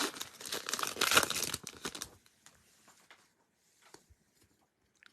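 Crinkling and rustling of plastic packaging as a pack of trading cards is handled, for about two seconds, then near quiet with a few faint clicks.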